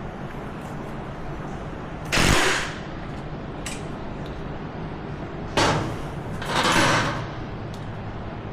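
Parts being handled during ATV repair work: three short, noisy scrapes or clunks (about two seconds in, then twice around six to seven seconds in) over a steady background hum.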